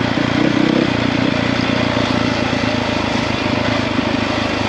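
450cc single-cylinder dirt bike engine running as the bike is ridden along a trail, its note strong for the first second and then easing off.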